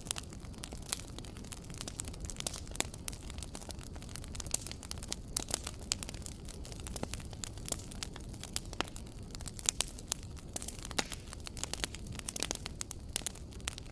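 Wood fire in a fireplace crackling: irregular sharp pops and snaps, a few of them louder, over a steady low rumble of burning.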